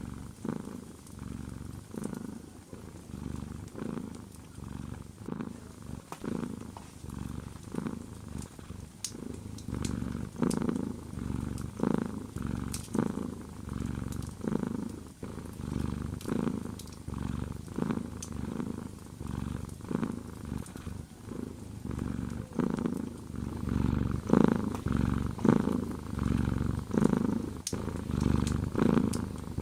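A domestic cat purring close to the microphone, swelling and fading in a steady rhythm with each breath, a little louder near the end. Faint crackles of a wood fire are scattered through it.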